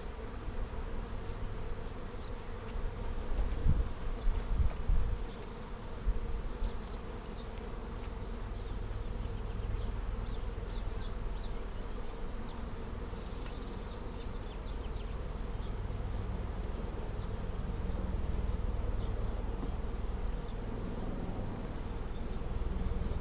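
Honeybee swarm humming steadily as it settles into a hive box, the bees fanning at the entrance, which the beekeeper takes as a sign the queen is inside. A few low rumbling thumps about four seconds in.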